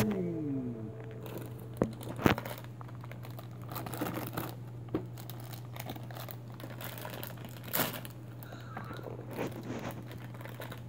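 A plastic blind bag holding a mini toy train being torn open and crinkled by hand: irregular crackling with a few sharper snaps.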